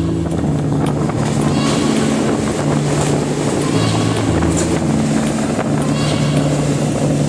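Train running over a river bridge, heard from aboard: a steady, loud rumble of wheels on the rails with a low droning hum.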